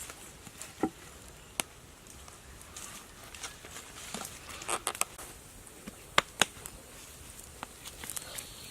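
Scattered sharp taps and knocks at irregular intervals, the loudest two close together about six seconds in.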